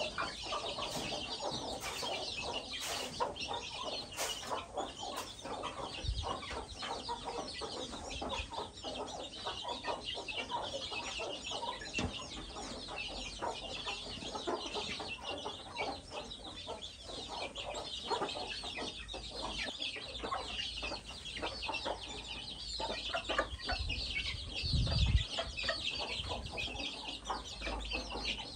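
A flock of chickens clucking continuously, over a steady high-pitched chatter of many small calls. A low thump comes near the end.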